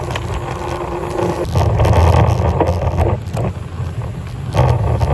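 Wind buffeting the microphone of a moving bike over road and traffic noise, swelling louder about a second and a half in and again near the end.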